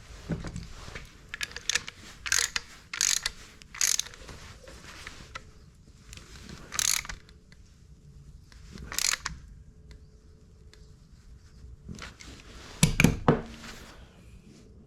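Ratchet wrench clicking in short bursts as pipe plugs are threaded into the spare outlet ports of a new tractor water pump, with a louder clatter of the tool near the end.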